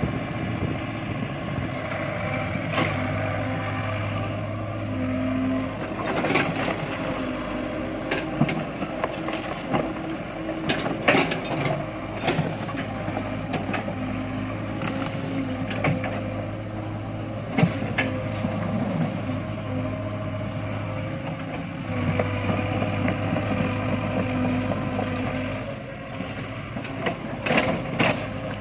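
Excavator's diesel engine running steadily and working harder twice, with irregular sharp knocks and clanks as it moves toward and digs at clumps of coconut palms.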